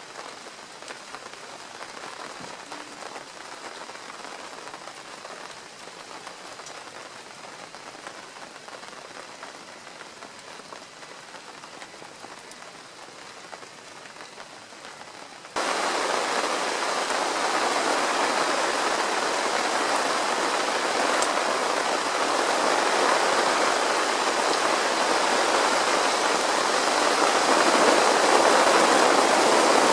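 Steady rain falling, a fine even patter. About halfway through it jumps suddenly to a much louder, denser rain.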